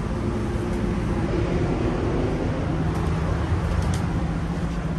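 Inside a passenger train carriage: the steady low rumble and hum of the train, heard from the corridor between coaches.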